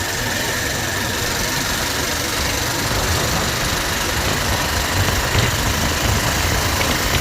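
Motorcycle engine running steadily with an uneven low rumble.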